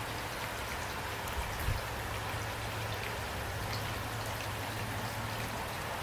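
Steady rain falling, with scattered drops pattering on a surface over a low steady rumble. A brief low thump comes about a second and a half in.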